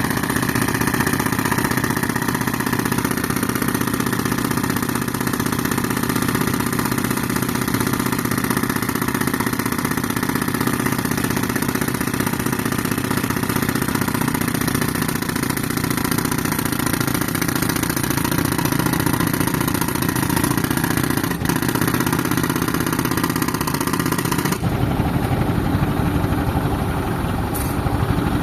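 Tractor engine running steadily while driving an air compressor, with a dense hiss over it. About three-quarters of the way through the high-pitched part cuts out abruptly and the engine runs on alone.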